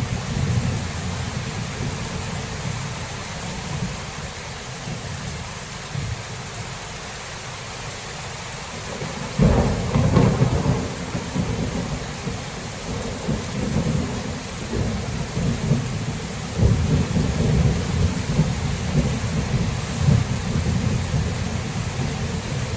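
Thunderstorm: steady rain with a continuous low thunder rumble. A little under halfway through, a sudden, louder thunderclap breaks in and rolls on into heavier rumbling.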